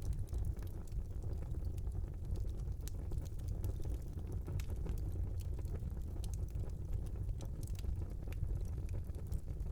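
Wood fire burning in a fireplace: a steady low rumble of the flames with frequent small, sharp crackles and pops scattered throughout.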